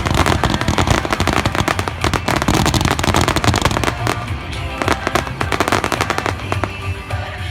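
Fireworks crackling in a dense, rapid run of pops over music. About four seconds in the crackling thins to scattered pops and the music comes forward with held notes.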